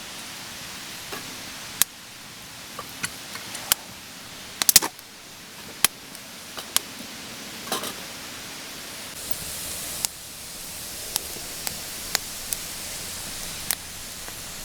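Campfire crackling: irregular sharp pops and snaps over a steady rushing hiss.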